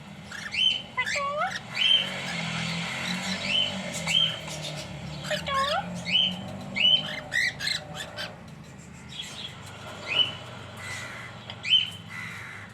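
Cockatiels calling: repeated short, sharply rising chirps at irregular intervals, with a couple of lower swooping whistles.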